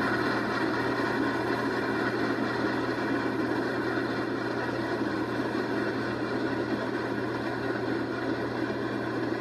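Passenger train rolling past: a steady rumble and rush of cars on the rails, slowly fading.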